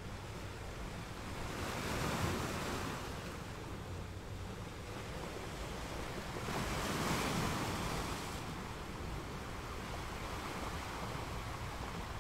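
Sea surf: small waves breaking and washing up a sandy beach in a steady wash of noise, swelling louder as a wave breaks about two seconds in and again around seven seconds in.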